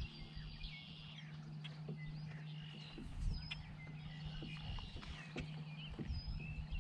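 Birds chirping and whistling over a steady low hum, with a few light knocks.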